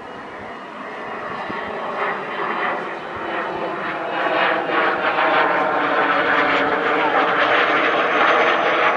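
Military jet aircraft taking off, its engine roar rising in level and holding loud with a ragged, crackling edge from about four seconds in.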